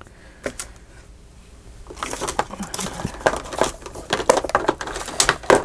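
Paper being handled: after a quiet moment, a quick run of irregular crisp rustles, crinkles and light taps starts about two seconds in.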